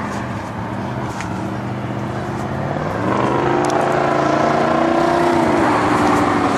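A road vehicle's engine running, its pitch and loudness rising sharply about three seconds in as it speeds up, then dropping off near the end.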